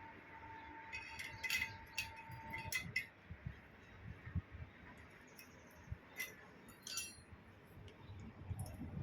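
Metal parts clinking against each other in several short bunches of sharp clinks. A ringing metallic tone carries on for the first few seconds and then stops.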